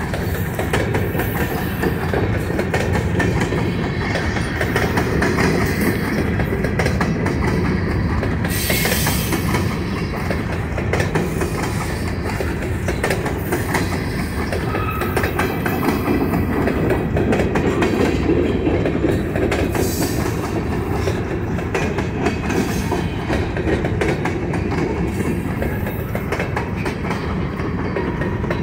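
Railroad cars rolling past, wheels clicking over the rail joints in a steady rumble, with a brief burst of high hiss about nine seconds in.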